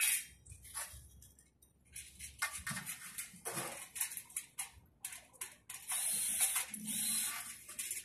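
Thin steel shed frame rails being handled and fitted together by hand: a string of short scrapes and light metallic clinks, with a couple of longer scrapes near the end.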